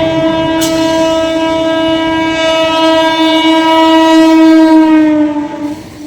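Indian EMU local train's horn sounding one long, loud, steady blast. Its pitch falls about five seconds in and the blast stops just before the end.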